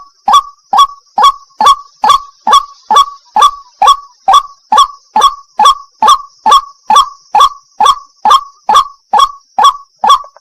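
White-breasted waterhen (burung wak-wak) calling, a steady run of short, loud 'kwak' notes repeated about two and a half times a second, each dropping in pitch, over a faint steady high hiss.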